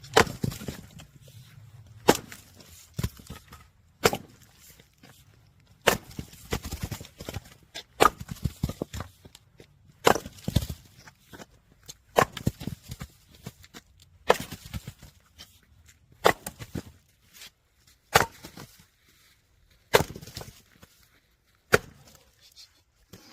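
Logs being split for firewood: a sharp crack about every two seconds, each followed by a brief splintering crackle of wood.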